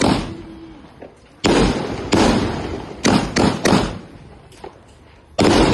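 A fireworks battery (multi-shot cake) firing: sharp bangs, each followed by a fading rumble, about two singly, then three in quick succession, then a pause before another loud bang near the end.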